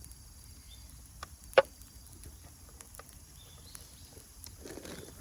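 Campfire burning with scattered faint crackles and one sharp, loud pop about a second and a half in; the firewood is somewhat damp.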